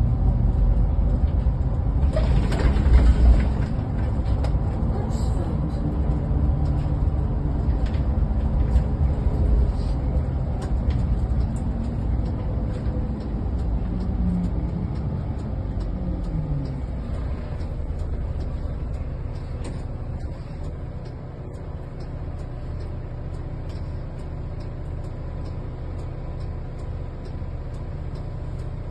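Bus engine and road rumble heard from inside the moving bus. A brief hiss comes about two seconds in. The engine note falls around the middle as the bus slows, and the running then settles quieter and steady.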